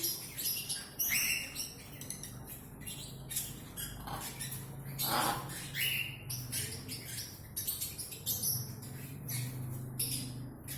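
Macaws squawking, many short harsh calls one after another, over a low steady hum.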